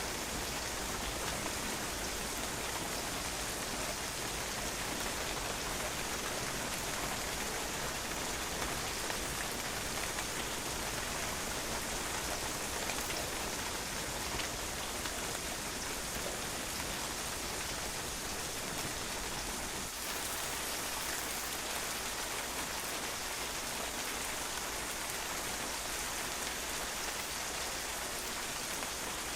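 Steady rain falling on a patio, a dense even hiss of many drops striking the hard surface, with no change in intensity.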